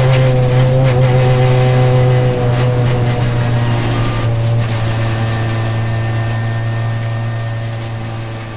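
A racing car's engine running at steady revs with a constant low hum, gradually fading out.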